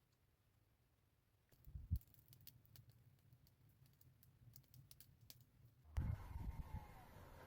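Faint, scattered sharp clicks with a low thump near the start, after a second or so of near silence. At about six seconds a louder, steady rustling noise with low thumps cuts in.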